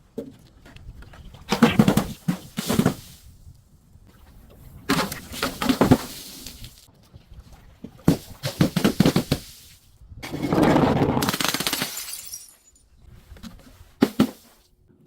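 Crunchy objects being crushed and broken, with crackling and cracking in about five separate bouts of one to two seconds each. The longest bout comes about ten seconds in.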